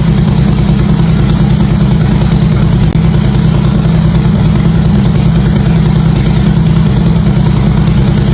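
Harley-Davidson V-twin engine idling steadily through its exhaust, its firing pulses running evenly with no revving.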